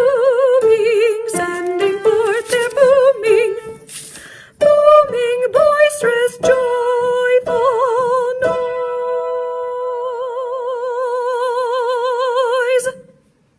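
A woman's voice sings the lower line of the soprano part's two-part ending with wide vibrato, while an instrument plays the higher part in short notes. The two close on a long held final chord of about four seconds that cuts off sharply.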